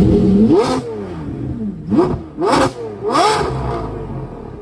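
A car engine revved in four quick throttle blips, each climbing sharply and dropping straight back.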